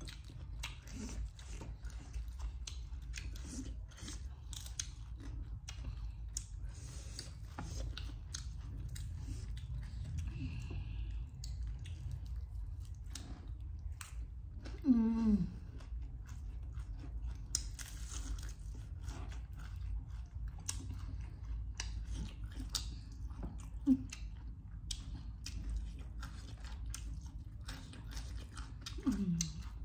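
Close-up eating sounds of crispy Korean fried chicken: crunching bites and wet chewing. A few short falling voice sounds break in, the loudest about halfway through and another near the end.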